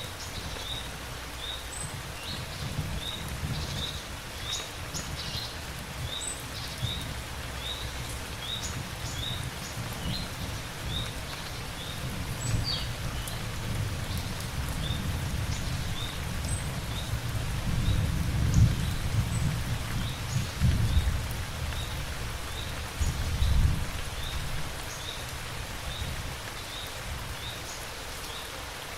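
Steady rain falling, with low distant thunder rumbling that swells in the second half. A short high chirp repeats about once a second throughout.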